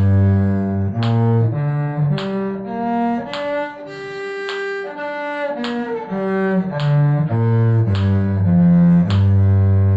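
Cello bowing a scale, one note at a time at about two notes a second. It climbs from a low note to a peak about halfway through, then comes back down and ends on a long held low note. It is a two-octave scale exercise in B flat major or G minor.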